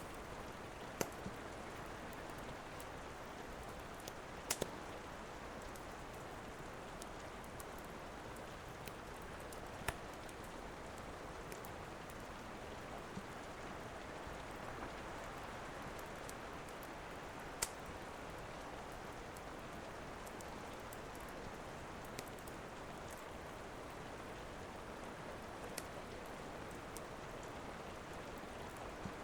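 Steady rain hiss with a handful of sharp, scattered pops from a crackling wood fire.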